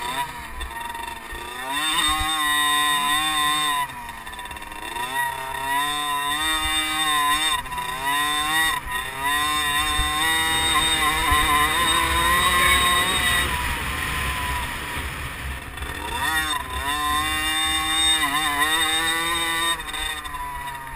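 Small two-stroke 50cc motocross bike engines revving up and falling back again and again, with the pitch climbing and dropping every second or two as the throttle is worked.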